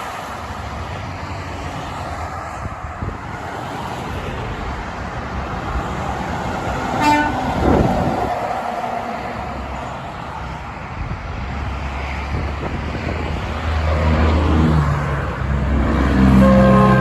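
Heavy road traffic passing steadily, with a deep pitched drone building from about three seconds before the end as a heavy vehicle comes close.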